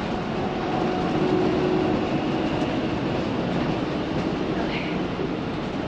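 Steady road and drivetrain noise heard inside a moving motorhome's rear living area: a dense rumble with a faint steady hum, and a short squeak near the end.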